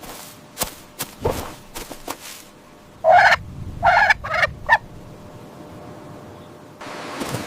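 A farm fowl calling: a quick run of four or five loud, rough notes about three seconds in, lasting under two seconds. Scattered sharp clicks and knocks come before it, and a steady noise rises near the end.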